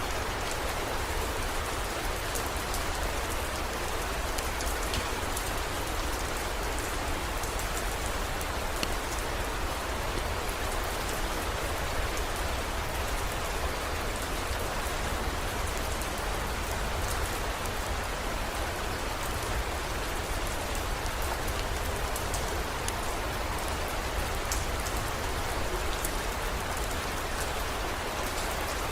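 Steady heavy rain, a dense even hiss with scattered fine drop ticks, over a constant low rumble.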